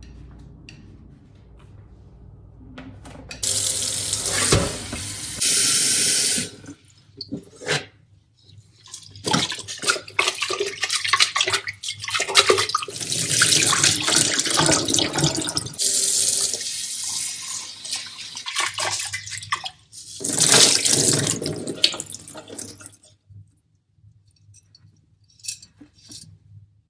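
Water running from a tap into a sink in several spells, turned on and off, with splashing and a few knocks.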